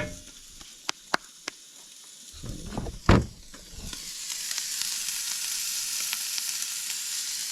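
Tomahawk ribeye steak sizzling on a camping grill, a steady hiss that grows fuller after about four seconds. A few sharp clicks in the first second and a half and a louder knock about three seconds in.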